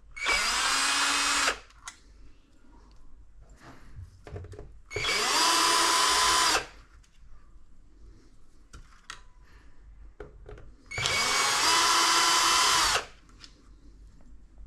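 Cordless drill-driver running in three separate bursts of about one and a half to two seconds each, its motor spinning up in pitch at the start of each burst and then holding steady.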